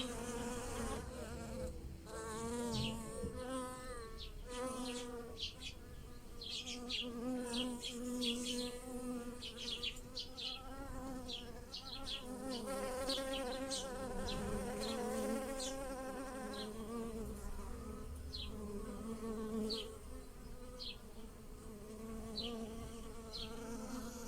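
Bees buzzing steadily around fruit-tree blossoms, the pitch wavering as they fly from flower to flower, with many short high chirps over the buzz.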